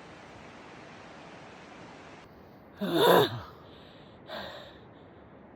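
Steady rushing background noise, then about three seconds in a loud voiced sigh of exertion falling in pitch, followed by a softer breath. It is a hiker out of breath on a strenuous uphill climb.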